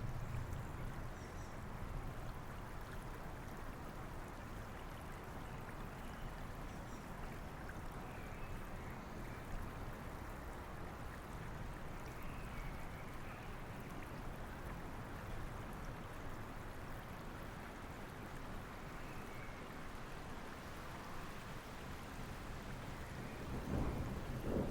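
Steady rushing of a flowing river mixed with rain. A low rumble of thunder fades at the start, and another starts building near the end.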